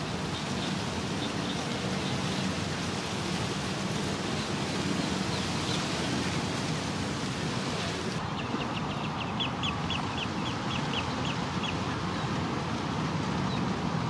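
Outdoor ambience with a steady background rush. A bird gives a quick run of short high notes, about three or four a second, for a few seconds in the second half, with fainter chirps near the start.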